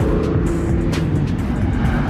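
A car or truck engine running as it drives off, its note shifting up and down, with music playing over it.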